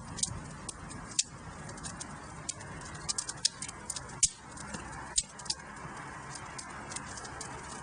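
Wood fire crackling in a fireplace: irregular sharp pops and snaps, a few louder ones about four and five seconds in, over a steady low rush of the flames.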